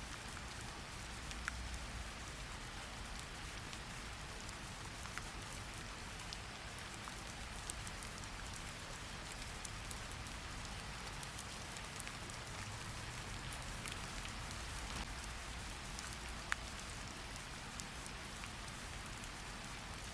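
Steady rain falling, with a constant hiss and scattered individual drops ticking close by against a low rumble.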